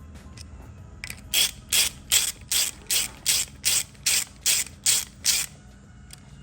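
Hand ratchet wrench clicking through about eleven even strokes, roughly two and a half a second, starting about a second in.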